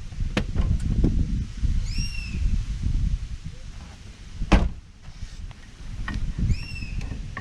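Metal clunks, scrapes and clicks from the rear brake of a car being worked on by hand, with one sharp knock about four and a half seconds in. The parts are binding tight because the handbrake was left on.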